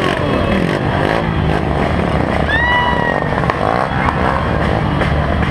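Many motorcycle engines running and revving together, their overlapping pitches rising and falling.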